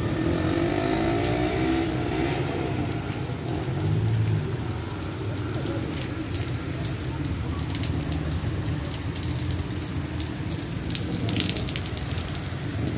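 Heavy rain falling steadily, with scattered drops striking close by. A motor vehicle passes in the first few seconds, its engine note rising and falling.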